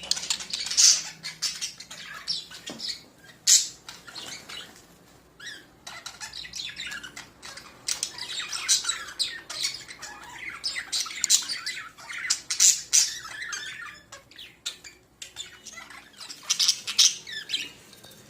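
Budgerigars (budgies) chattering with short, sharp squawks and chirps, coming in irregular bursts with short pauses between.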